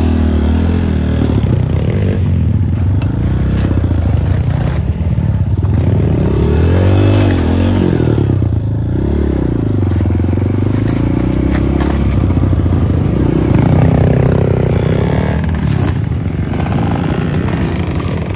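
Trail motorcycle engine running loud as the bike rides down a dirt track, its pitch rising and falling repeatedly as the throttle is opened and closed, with one higher rev near the end.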